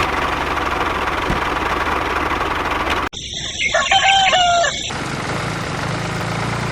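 A rooster crows once, about halfway through, over a steady rushing hiss.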